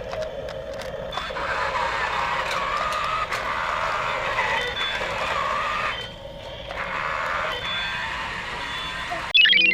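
Two RC toy cranes driving, their small electric motors and gearboxes whining with a wavering pitch, easing off briefly about six seconds in. A short loud burst comes near the end.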